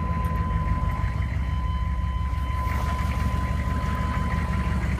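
GM 6.5-litre V8 diesel of a 1997 Chevy 3500 idling steadily just after starting, already warm from use earlier in the day. A steady high electronic tone sounds over it and stops near the end.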